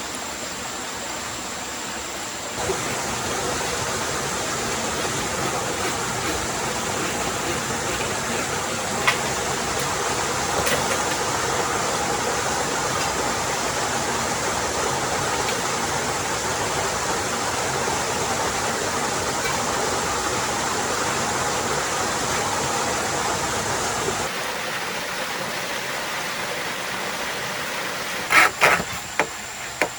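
Steady rushing of flowing water, an even wash of noise like a forest stream. Near the end come a few short rasping strokes.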